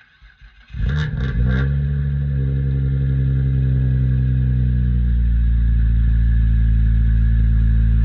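Hyundai Tiburon's engine cold-starting: a brief crank about a second in, then it catches and runs at a steady idle, dropping slightly in pitch as it settles.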